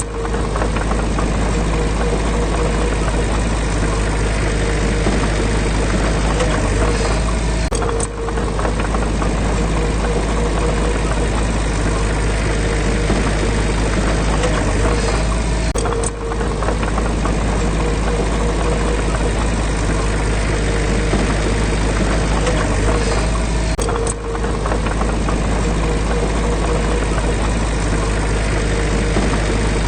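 Heavy construction machine's diesel engine running steadily at a low, even speed, with brief breaks about every eight seconds.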